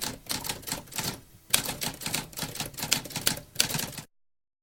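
Typewriter keys clacking in rapid runs of strikes, with a short pause a little over a second in. It cuts off suddenly near the end.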